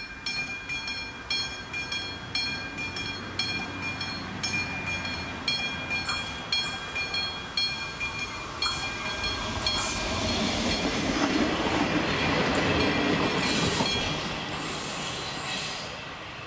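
Level crossing warning bell ringing in a steady rhythm, about two strokes a second. From about nine seconds in, a passenger train runs over the crossing and drowns it out, loudest a few seconds later and easing off near the end.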